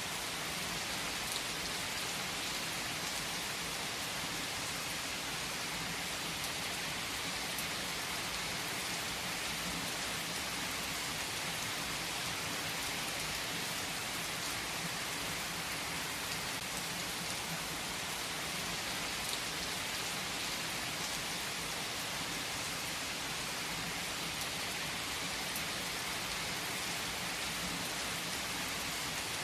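Steady rain falling on a surface, an even unbroken hiss of drops with no change in strength.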